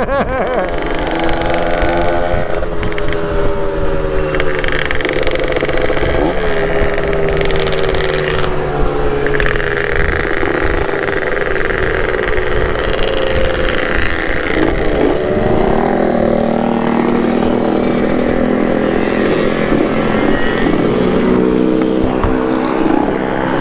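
Two-stroke motorcycle engine running on the road. Its pitch slides down and back up as the throttle is eased and opened again, over steady wind rush.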